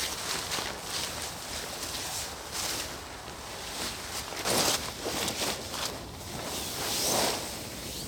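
Rustling and swishing as someone moves about and handles gear outdoors, with louder swishes about halfway through and again near the end.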